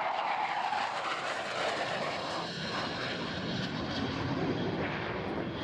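Airplane engine noise from a display aircraft flying overhead, a steady dense rush of sound.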